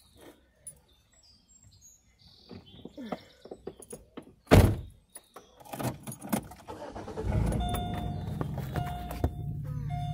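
Handling clicks and one loud thump, then a car engine starts and runs steadily. Over the engine, a dashboard chime beeps on and off.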